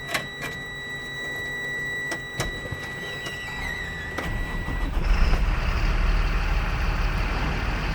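A steady high tone and a few sharp clicks, then about four seconds in a 2007 Mercedes-Benz MBE900 turbo diesel is cranked and catches almost at once, running steadily.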